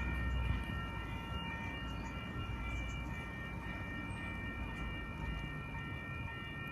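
Four-car Sydney Trains H-set 'Oscar' electric train pulling into the platform: a low rumble that eases off about half a second in, with a steady high-pitched whine of several tones over it.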